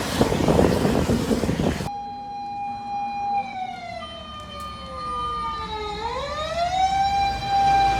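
A loud rushing noise that cuts off abruptly about two seconds in, giving way to an emergency-vehicle siren wailing. The siren's pitch slides slowly down, swings back up about six seconds in, and then holds steady.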